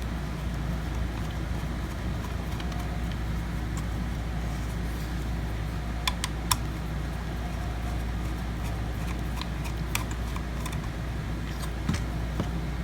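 A few sharp clicks and taps from handling a laptop hard drive in its metal mounting caddy, two close together about halfway through and more near the end, over a steady low hum.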